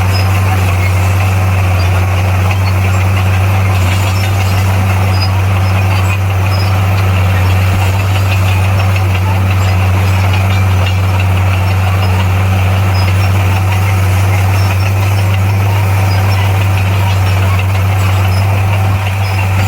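Komatsu bulldozer's diesel engine running at a steady speed, a constant low drone with no change in pitch.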